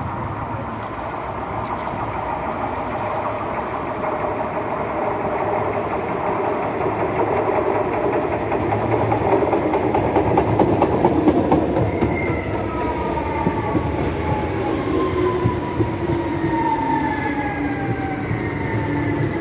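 Electric commuter train at the platform: a rumble of wheels on the rails that swells towards the middle, then, from about twelve seconds in, several whining tones sliding down in pitch as the train slows.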